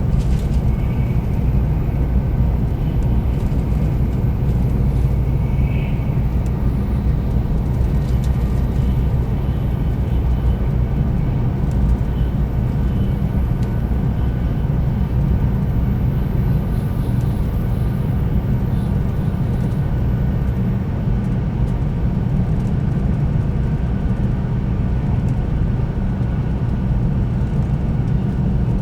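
Steady running noise inside the passenger cabin of a 300 series Shinkansen train, a low rumble from wheels and track with a few faint steady tones above it.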